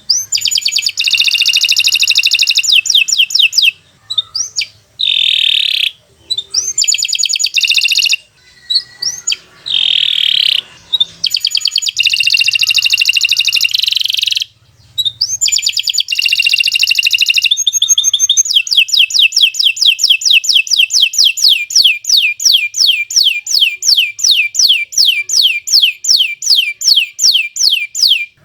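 Domestic canary singing: fast trilled phrases broken by short pauses, then about two-thirds of the way in a long unbroken run of the same sweeping note repeated several times a second.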